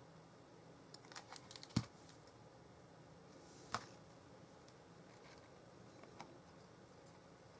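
Small clicks and taps of cardstock pieces being handled and pressed down on a craft table, with one louder knock just under two seconds in and a single sharper click near the middle.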